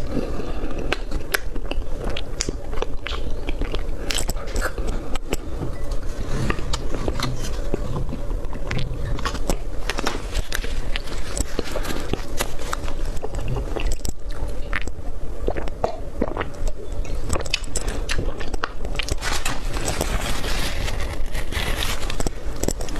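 Chewing of soft cream roll cake picked up close to the microphone: wet mouth sounds with many small clicks and smacks, irregular and continuous.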